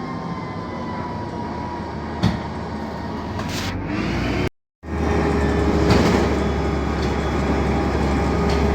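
City bus running, the Mercedes OM 906 LA six-cylinder turbodiesel and Voith automatic driveline giving a steady hum with a click and a short hiss partway through. The sound drops out briefly about halfway, then returns louder and steadier.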